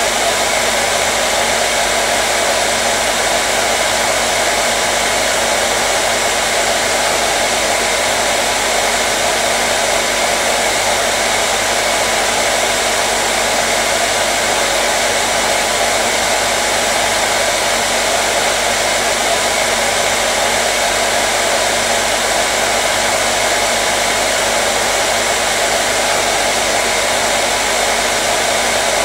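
Hair dryer running steadily: a constant rush of blown air with the even hum of its motor, unchanging throughout.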